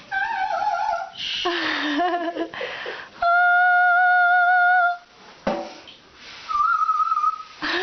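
High sung and whistled notes traded between a woman and a Timneh African grey parrot: a wavering note, then a long, very steady note held for nearly two seconds, then a shorter, higher note near the end.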